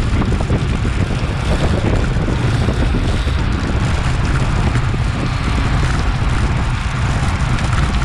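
Steady wind rushing over an action camera's microphone on a bicycle moving at road-race speed.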